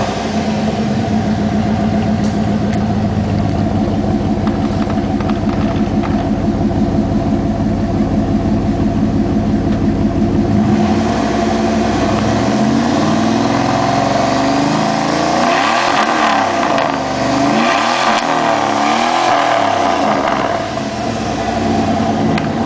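Dodge Ram 1500's 318 V8 running loud through straight-piped dual exhaust with no mufflers, just after starting. It idles steadily for about the first ten seconds, then is revved up and down repeatedly before settling back to idle near the end.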